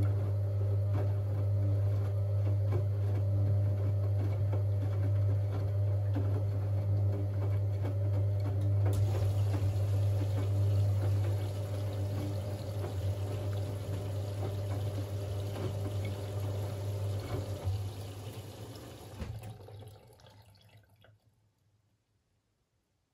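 Siemens Siwamat 6143 washing machine taking in water at the start of its boil-wash cycle: the water inlet valve hums steadily while water rushes into the machine. The rushing grows brighter about nine seconds in. Near the end the valve shuts off and the flow dies away to silence.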